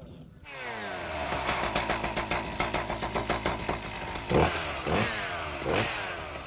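Chainsaw running hard, its engine pitch sliding down and back up, with a few loud knocks about four to six seconds in.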